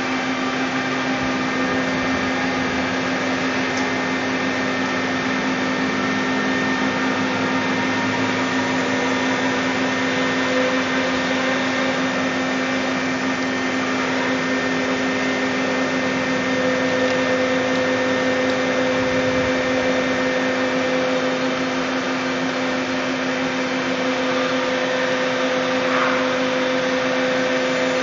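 Puma 350 CNC lathe running steadily: a continuous mechanical whir with a steady low hum, and a higher tone that comes in and grows stronger about halfway through.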